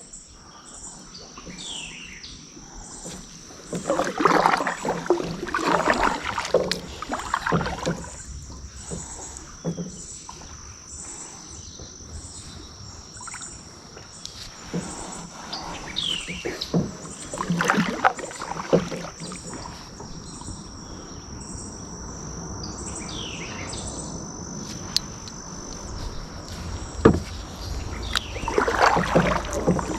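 Kayak paddle strokes dipping and splashing in the water, coming in several runs of strokes with quieter gliding between them, over a steady high insect buzz.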